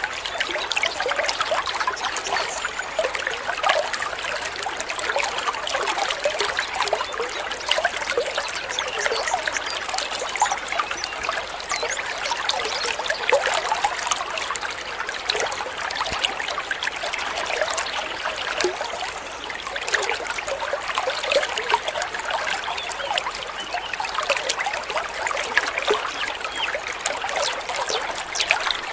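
Small stream of water trickling and babbling steadily, with many little splashes and gurgles.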